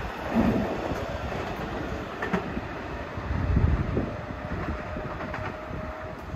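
Keikyu 600-series electric commuter train running away over the station's pointwork: a low rumble of wheels on rail with a few clacks and knocks, swelling about three and a half seconds in and then fading as the train recedes.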